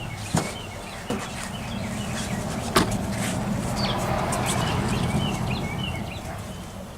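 Birds chirping in the background, with three sharp knocks or clicks in the first three seconds over a steady low hum.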